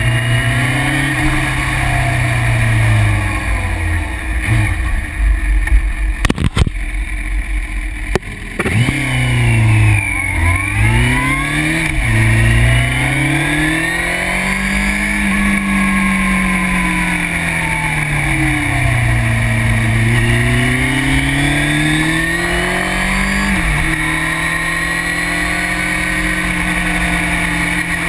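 Yamaha Thundercat (YZF600R) sport bike's inline-four engine on the move, its note rising and falling with the throttle and dropping suddenly near the end, heard from a bike-mounted camera with wind noise over the microphone.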